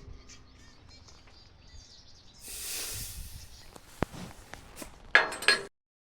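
Hand work on welded steel to remove slag: a short hissing scrape about halfway through, a single tick, then two sharp metal knocks near the end before the sound cuts off abruptly.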